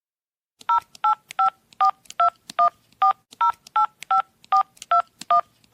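Touch-tone telephone keypad being dialled: a dozen or so short two-tone beeps at a steady pace of about two or three a second, starting under a second in, as a phone number is keyed in.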